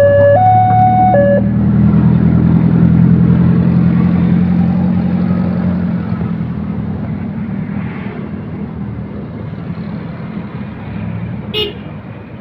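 Level-crossing warning alarm alternating between two tones and stopping about a second in, while a train passes with a low steady engine drone that slowly fades away. A brief sharp click comes near the end.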